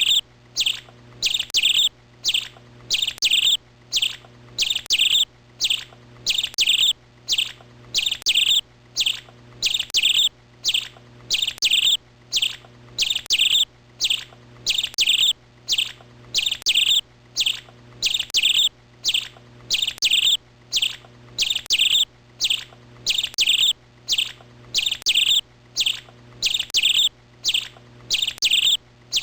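A bird calling a short, high chirp in quick pairs, about one pair a second, repeated at a very even pace.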